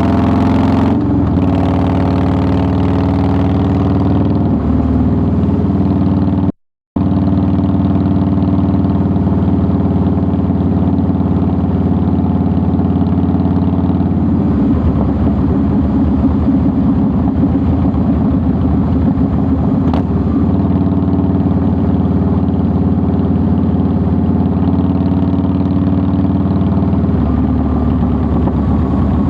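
2009 Harley-Davidson Softail Deluxe's air-cooled Twin Cam 96 V-twin running steadily under way. The sound cuts out completely for a split second about six and a half seconds in. The note turns rougher about halfway through and again near the end.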